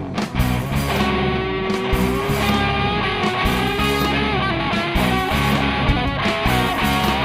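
Rock band playing an instrumental passage: electric guitar with held notes over bass guitar and a drum kit.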